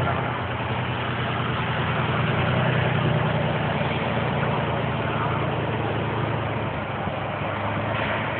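Heavy truck diesel engine running steadily, a low even hum under broad outdoor noise.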